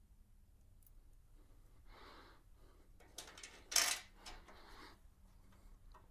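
Faint handling of small metal bolts and hardware: light clicks and scraping, with a brief louder rattle a little before four seconds in.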